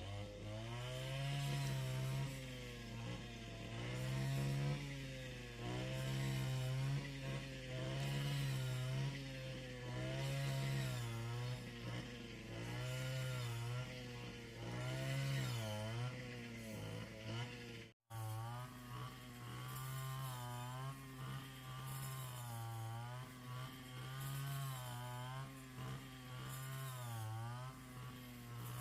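Small petrol engine running continuously, its pitch rising and falling every second or two as the load and throttle change. It cuts out for an instant about two-thirds of the way through, then carries on the same way.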